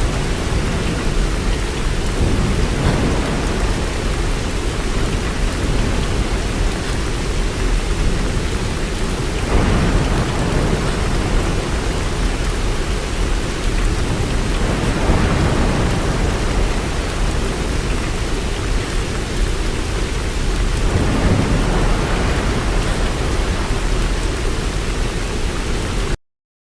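Steady heavy rain with low rolling thunder swelling up several times; the sound cuts off abruptly near the end.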